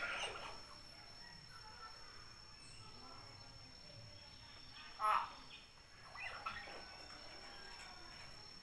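Common hill myna (burung beo) calling: a few short, loud, separate calls, the loudest about five seconds in and another a second later.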